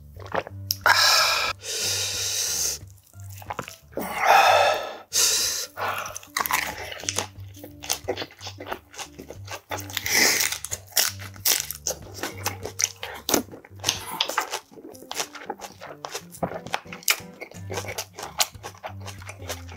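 Close-up eating sounds: a man biting and chewing a lettuce and cabbage-leaf wrap of pork bulgogi, the crisp leaves crunching in many quick crackles. Two longer, louder sounds come in the first five seconds, before the steady chewing.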